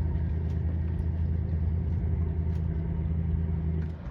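Motorboat engine running at low speed, a steady low drone that cuts off suddenly just before the end.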